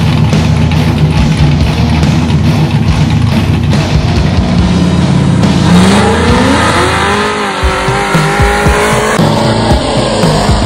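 Street-race car engine held at steady revs, then launching about six seconds in, its note climbing steeply as it accelerates hard, under loud background music.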